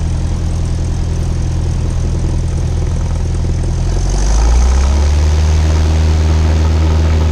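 Cessna 172 Skyhawk's piston engine and propeller running steadily, then throttled up about four seconds in, the note rising in pitch and getting louder before holding at full power: the start of the takeoff roll.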